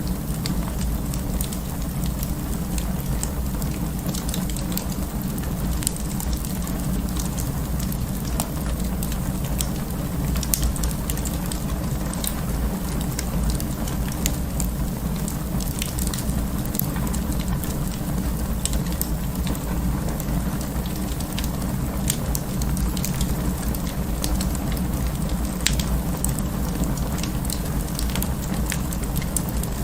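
Wood fire in an open fireplace crackling, with frequent sharp irregular pops and snaps over a steady low rumble of the flames.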